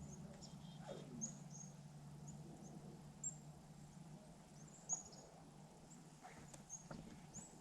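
Faint, short, high chirps of small birds, repeated at irregular intervals over a steady low hum, with a few soft clicks.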